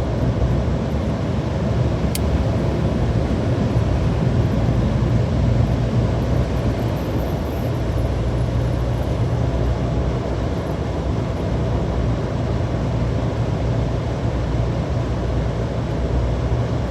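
Steady road and engine noise heard inside a moving car's cabin, with a single faint click about two seconds in.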